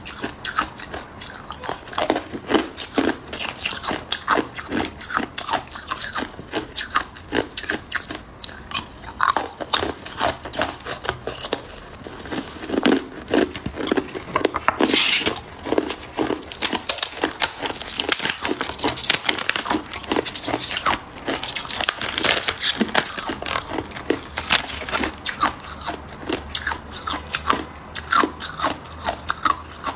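Hard ice cubes being bitten and chewed close to the microphone: sharp, irregular crunching and crackling, several cracks a second, on and on.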